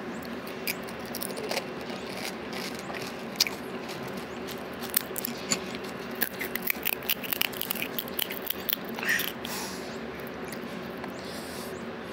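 Close-up eating of panipuri. A few sharp cracks come as the crisp puri shell is broken open and filled. From about the middle, a dense run of crunching and wet chewing follows as a whole water-filled puri is eaten, over a steady low hum.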